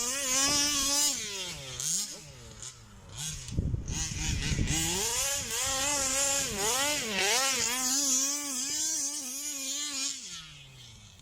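Two-stroke Zenoah G320 engine of a 1/5-scale Rovan Baja RC car with a VRC big-bore exhaust, revving up and down over and over as the car is driven. A short low rumbling noise comes about four seconds in, and the engine fades away near the end.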